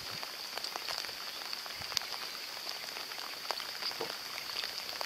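Steady rain falling on lake water: an even hiss dotted with many small, scattered drop ticks.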